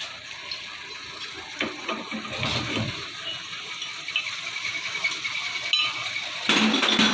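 Metal clinking and clattering at a lathe over a steady hiss, with a louder clatter about six and a half seconds in.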